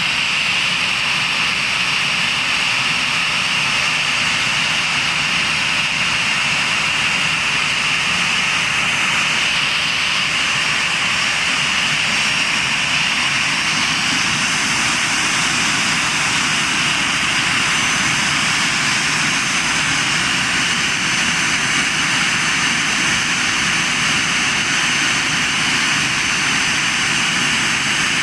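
Jet engine of an Airbus airliner running steadily in a ground run after being newly installed: a constant loud rushing roar with thin high whines over it, one whine growing clearer past the middle.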